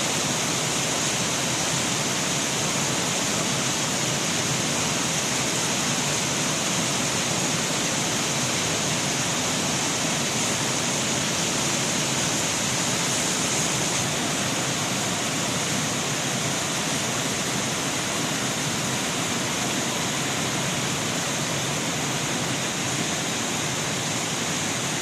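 Fountain water jets spraying and splashing down into a pool, a steady rush of falling water.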